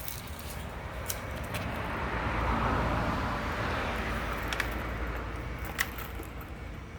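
Honda Super Cub C50's 49 cc four-stroke single-cylinder engine running with a rattling noise, growing louder about midway and then easing back, with a few sharp clicks. The engine has failed and the rattle's source could not be found.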